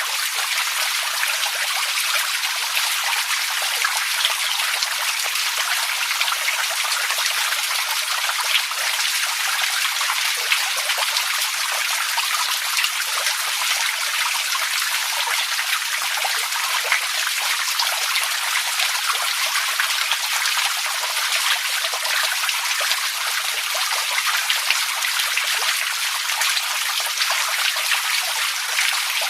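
Steady water sound, a continuous trickling rush with many small drops and splashes pattering through it.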